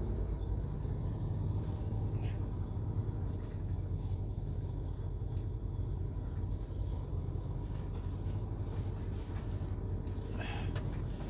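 Steady low rumble of a semi-truck's diesel engine, heard from inside the cab.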